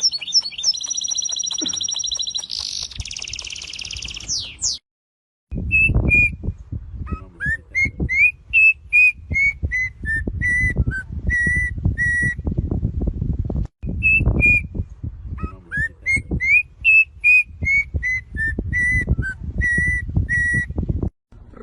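Parrot whistling: first a high, wavering whistle for about five seconds, then after a short break a tune of short whistled notes, some sliding upward, heard twice over, with low rumbling noise underneath.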